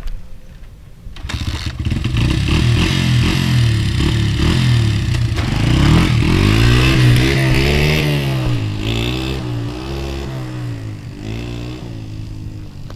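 Custom-built Honda dirt bike engine, loud from about a second in and revving up and down repeatedly, getting somewhat quieter over the last few seconds.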